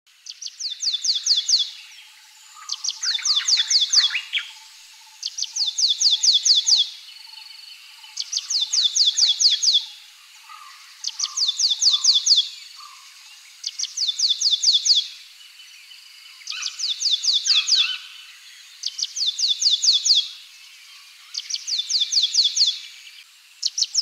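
A songbird singing the same phrase over and over: a quick run of about eight to ten high, downward-slurred notes lasting about a second and a half, repeated every two to three seconds. Fainter calls of other birds carry on underneath.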